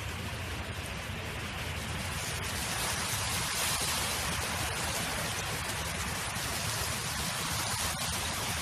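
Wind blowing across an open field: a steady rushing hiss that swells about three seconds in, over a low rumble.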